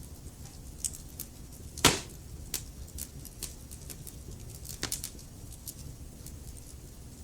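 Wood fire crackling in a fireplace: scattered small snaps over a low, steady rumble of the flames, with one loud pop about two seconds in and a few sharper cracks a little before the five-second mark.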